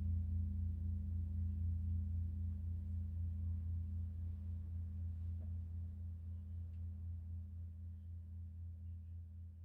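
A gong ringing out after being struck: a low, steady hum with a slow, regular waver, gradually fading away.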